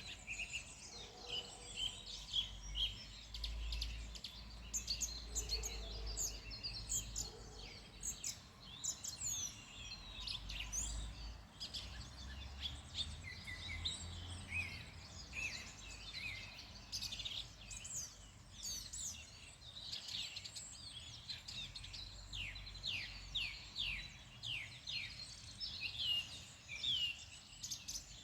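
Several songbirds singing at once, a dense chorus of quick high chirps and trills, over a faint low rumble.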